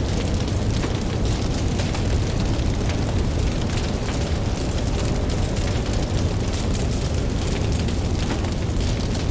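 Campfire crackling, with frequent small pops and snaps, over a steady low rumble of ocean waves.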